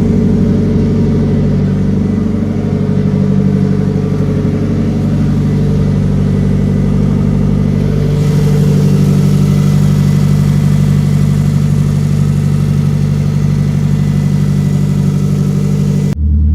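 Turbocharged four-cylinder engine of a Mitsubishi Eclipse GSX running at a steady speed, its note lifting slightly about halfway through, then changing abruptly just before the end.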